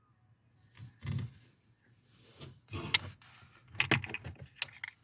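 Irregular clicks, knocks and rustling from parts or tools being handled, loudest in a cluster from near the middle to near the end.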